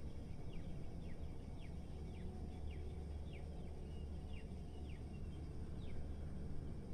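Steady low rumble of city ambience, with a small bird giving a string of short, quick downward-sliding chirps over it.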